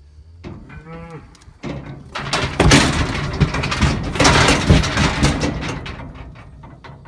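A bull calf bawling in distress while it is being castrated with a knife. A short call comes about half a second in, then a long, loud, hoarse bellow from about two seconds in that fades out near the end.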